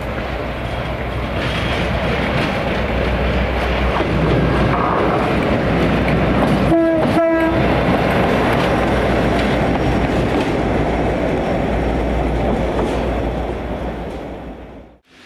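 A train passing close by with a steady rumbling run that swells and then fades, and two short horn blasts back to back about seven seconds in. The sound cuts off abruptly just before the end.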